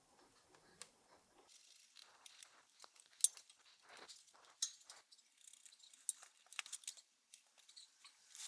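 Irregular small clicks, taps and crisp scratching of hands working on small parts. A few sharper clicks stand out among them.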